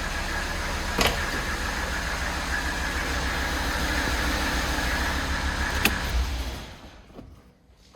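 Mercedes OM617.951 five-cylinder turbodiesel running steadily, with two short clicks, then shut off about six and a half seconds in, its sound dying away.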